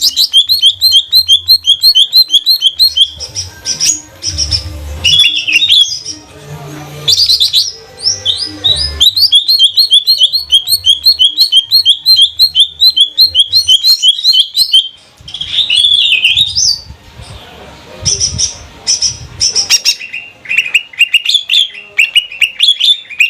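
Greater green leafbird (cucak ijo) in full, continuous song: fast runs of sharp, repeated high chirping notes, easing off briefly about two-thirds of the way through.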